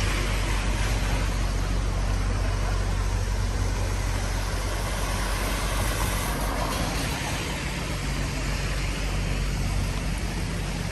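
Rainy street ambience: a steady hiss of rain and wet road, with motor vehicles passing and a low engine hum.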